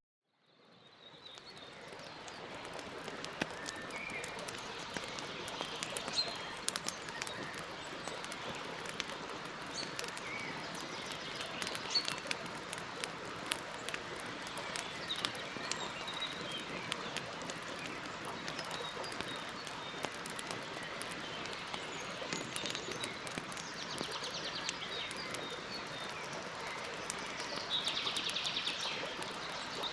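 Campfire burning with a steady hiss and frequent sharp crackles and pops, fading in over the first couple of seconds. Birds chirp now and then, with short trills near the end.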